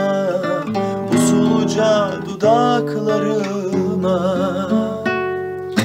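A man sings with vibrato to a strummed acoustic guitar, holding a long wavering note near the end.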